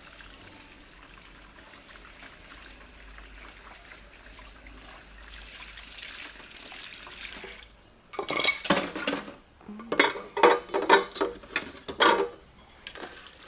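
A kitchen tap runs steadily, then stops about seven and a half seconds in, followed by loud, irregular clattering of dishes and utensils for about four seconds.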